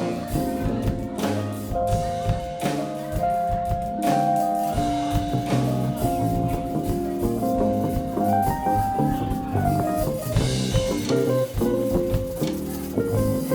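Band music with a drum kit and guitar, and a melody of long held notes over them.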